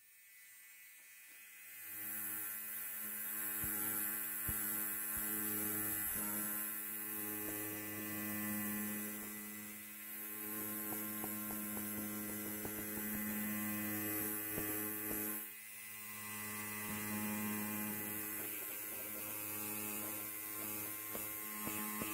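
Electric hair clipper buzzing steadily, a low hum with a stack of even overtones. It comes in over the first two seconds and dips briefly about two-thirds of the way through.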